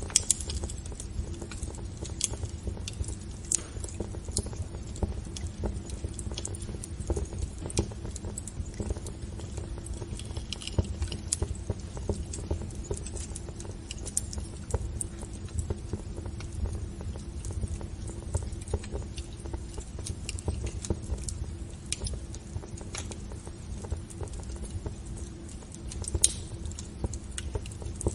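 Wood fire in a fireplace crackling, with irregular sharp snaps over a low steady rumble of flames.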